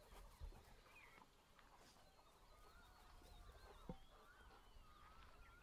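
Near silence with faint bird calls: many short chirps and whistles, and a soft knock about four seconds in.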